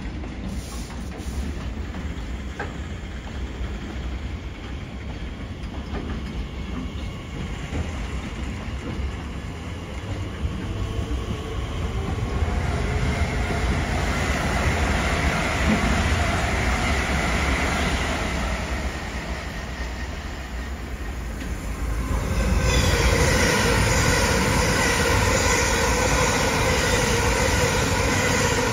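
Class 66 diesel freight train running on the rails with a low, steady rumble. It grows louder about twelve seconds in and again about twenty-two seconds in, when several steady high tones join it.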